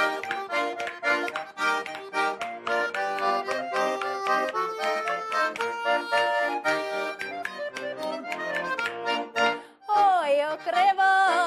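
Accordion playing a fast folk-tune interlude with a quick run of notes and chords. Near the end a voice comes in singing with a wavering pitch.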